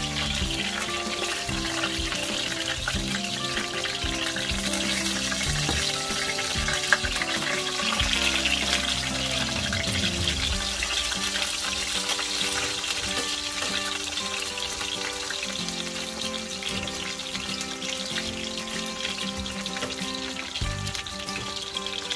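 Food frying in hot oil, a steady crackling sizzle, under background music.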